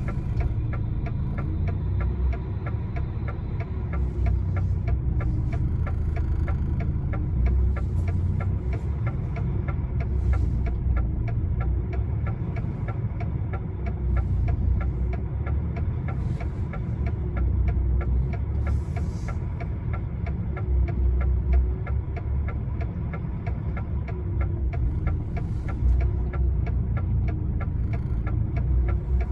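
Lorry's diesel engine running at low revs with a steady low throb and a fast regular ticking, as the truck creeps slowly through snow.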